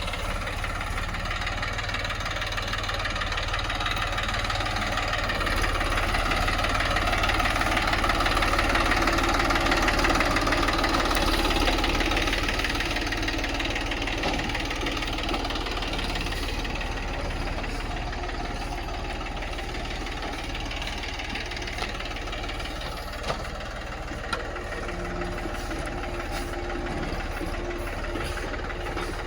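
Tractor's diesel engine running steadily with a knocking beat, growing louder for several seconds about a fifth of the way in and then settling back. Two short sharp clicks come late on.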